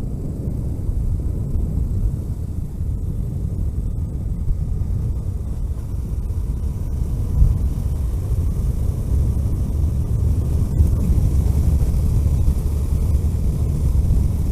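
Car driving along a road: a steady low rumble of engine and tyres, growing slightly louder toward the end.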